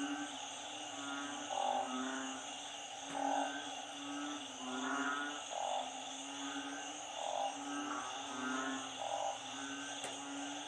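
Frog chorus of narrow-mouthed frogs (อึ่ง) and small frogs (เขียด) calling in floodwater after a storm. Overlapping low moaning calls repeat about once a second, over a steady high-pitched din of many smaller callers.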